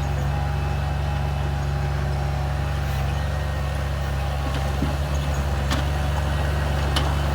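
A bulldozer's diesel engine running steadily under load, with a couple of sharp metallic clanks near the end.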